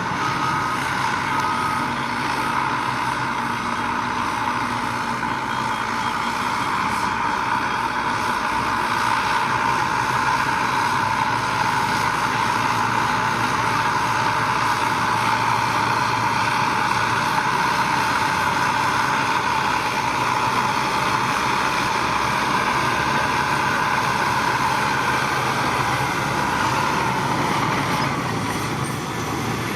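Heavy diesel construction machinery running steadily under load, a dense, constant mechanical noise. A reversing alarm beeps a few times at the start, then stops.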